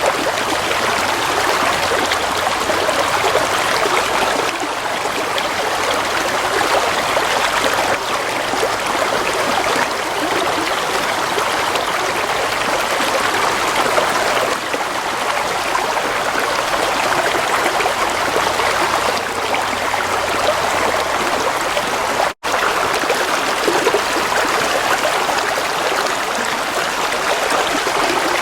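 Gentle flowing water, a stream running steadily with a soft trickling rush. It cuts out for a split second about three quarters of the way through.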